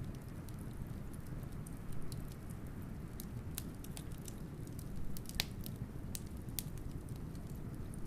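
Wood fire crackling, with scattered sharp pops and one louder snap about five seconds in, over a steady low rush of wind.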